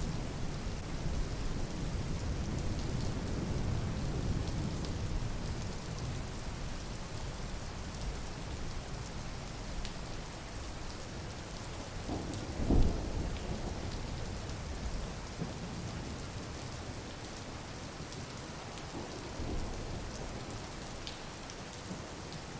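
Steady rain falling, with a low rumble of thunder in the first few seconds that fades out. A short, louder low thump comes about halfway through.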